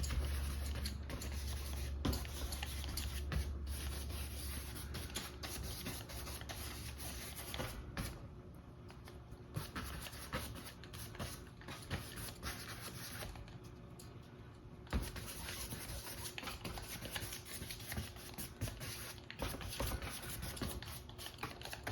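Paintbrush bristles dabbing and scrubbing acrylic paint onto a stretched canvas: a soft, irregular scratchy rubbing made of many short strokes, with a couple of brief lulls. A low hum sits under it for the first few seconds.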